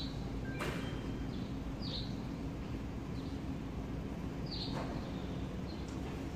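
Small birds chirping briefly, short high chirps every second or so, over a steady low hum of room noise. A single sharp click about half a second in.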